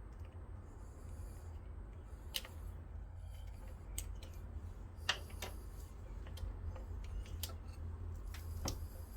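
A few separate light clicks and taps of hand tools and parts being handled during engine wiring work, over a steady low rumble.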